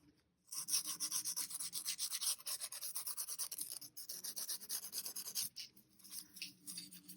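A brush rubbing gold onto cardboard in quick, rapid scrubbing strokes. The strokes ease off and grow fainter about five and a half seconds in.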